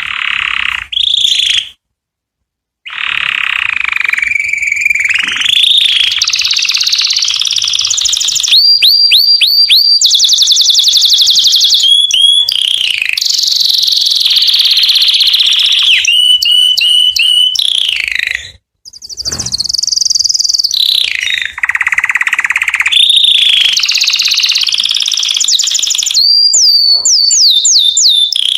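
Canary singing a loud, long song of rolling whistles and fast trills of rapidly repeated notes, with a short break about two seconds in and another a little past the middle.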